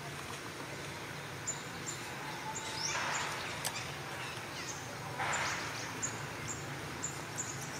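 Outdoor ambience with a bird giving short, high chirps over and over, roughly one or two a second. Two brief rustling hisses come about three and five seconds in.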